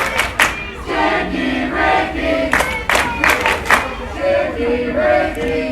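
Wrestling crowd chanting in a sing-song, many voices holding notes together, with claps and shouts in between, jeering the beaten wrestler.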